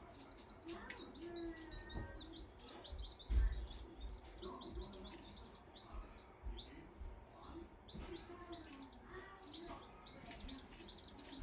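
Baby chicks peeping: many short, high, falling chirps overlapping without pause. A low thump about three and a half seconds in.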